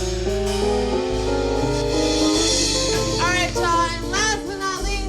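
Live band music: a keyboard solo over bass and drums, with sustained chords and a steady bass line. From about three seconds in, a voice sings short bending runs over it.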